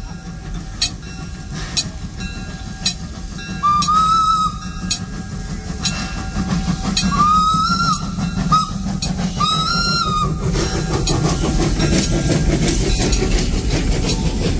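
Narrow-gauge steam locomotive's whistle blowing four blasts, long, long, short, long: the grade-crossing signal. Under it the train's running noise swells, with sharp ticks about once a second before it.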